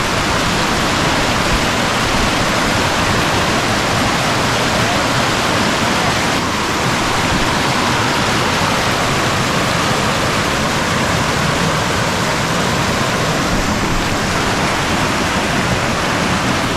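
River water rushing steadily over a rock dam and its rapids, a loud, even, unbroken rush.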